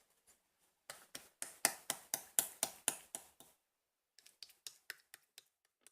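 Slime being pressed and squeezed by hand, making a quick run of sharp popping clicks, about five a second, loudest in the middle, then a fainter run of small pops near the end.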